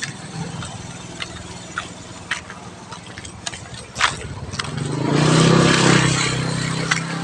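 A vehicle engine running steadily and growing louder, loudest about five to six and a half seconds in, as it comes close; scattered sharp clicks and taps along the way.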